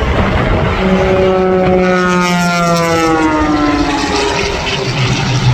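Aircraft flying past low during an airshow, its engine note falling in pitch as it goes by, about one to three and a half seconds in, over a steady rushing noise.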